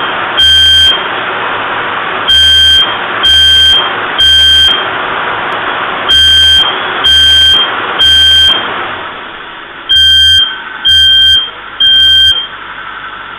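Smoke alarm sounding its repeated three-beep pattern, loud and high-pitched, with the car's engine running underneath. It has been set off by exhaust fumes from the engine, whose choke is running rich.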